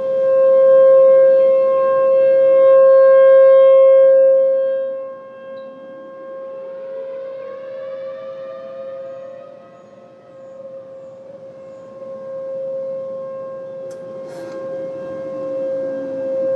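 Outdoor civil-defense warning sirens sounding. One siren holds a steady tone that is loud for the first few seconds and then fades, while a second siren's pitch rises and falls about midway through and again near the end.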